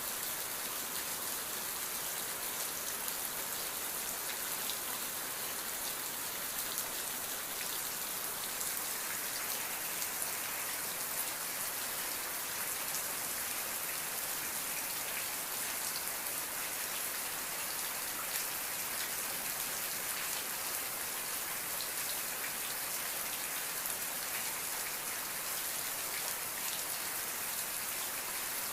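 Steady rain falling, an even hiss with many fine drop ticks on a hard surface.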